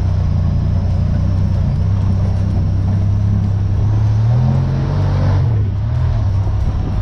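Honda Pioneer 1000 side-by-side engine running steadily on the trail. It revs up about four seconds in and eases off a second or so later.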